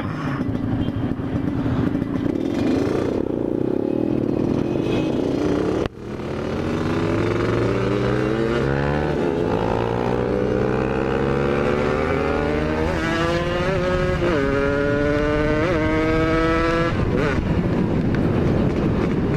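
Yamaha RX-King's two-stroke single-cylinder engine run hard, its pitch climbing again and again and dropping back at each gear change, with wind rushing over the microphone. The throttle is briefly closed about six seconds in.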